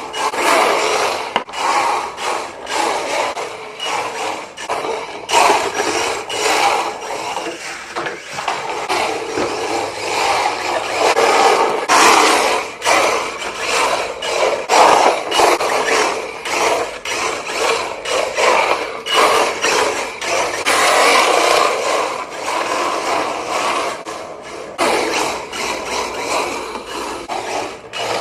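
RC drift car running and sliding across the floor: its electric motor and drivetrain whirring up and down with the throttle while the hard tyres scrape as it drifts, with frequent sharp clicks and knocks.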